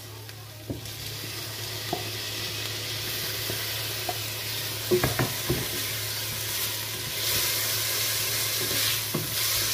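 Onions browned in olive oil sizzling in a steel pot as diced tomato is scraped in from a wooden board with a wooden spatula and stirred. There are a few sharp knocks of the spatula against board and pot, and the frying grows louder near the end.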